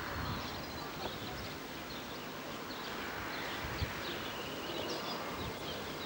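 Birds chirping over steady outdoor background noise, with one short soft knock a little before four seconds in.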